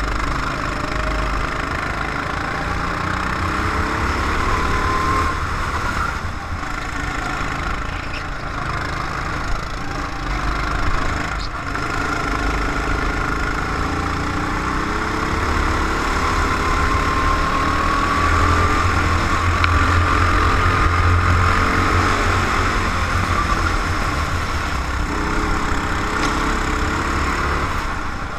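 Go-kart engine heard from onboard, running continuously and rising and falling in pitch as the throttle opens and closes through the corners.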